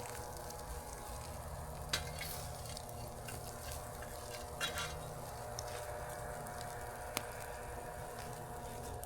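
Steak and a foil-wrapped cowboy (hobo) packet sizzling on a grill over campfire coals, a steady hiss broken by a few sharp pops a couple of seconds apart.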